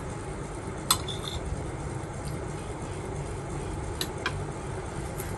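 Light clinks of utensils on tableware: one sharp clink with a short ring about a second in, then two quicker taps around four seconds in, over a steady low background hum.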